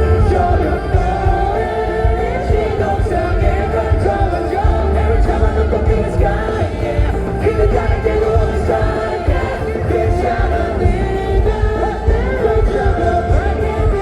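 Live pop-rock band performance: full band with heavy bass and drums under a sung melody, playing continuously.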